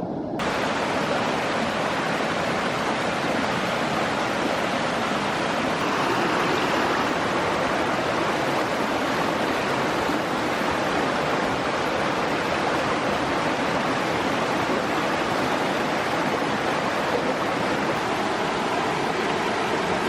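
Stream water flowing, a steady even rush that begins abruptly about half a second in and holds level throughout.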